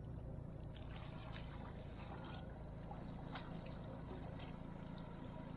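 Low, steady hum of a boat engine idling, with a few faint ticks of water against the hull.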